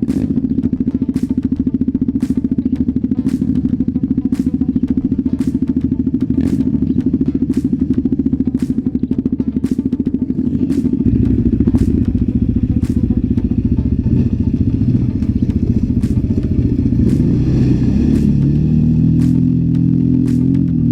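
An enduro motorcycle engine running under music with a steady beat of about two clicks a second; a heavier low part comes in about halfway.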